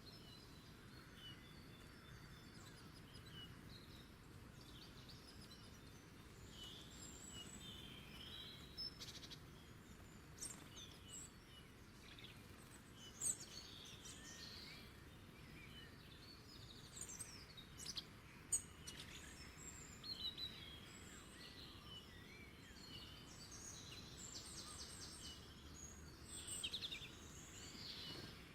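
Wild songbirds chirping and calling on and off over a faint steady background rumble, with a few sharper calls about halfway through and a quick run of high calls near the end.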